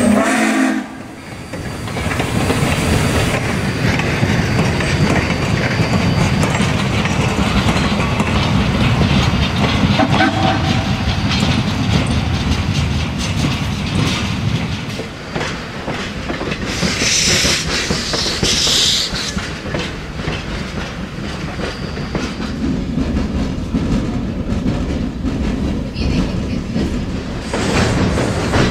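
Steam-hauled freight train of hopper cars rolling past at low speed: a steady rumble of steel wheels with clicking over the rail joints. A brief burst of high-pitched noise comes about two-thirds of the way through.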